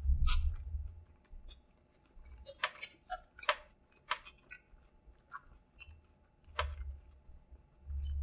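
Close-miked chewing of a bite of spicy crispy chicken sandwich, with irregular wet mouth clicks and smacks and a few low muffled bumps.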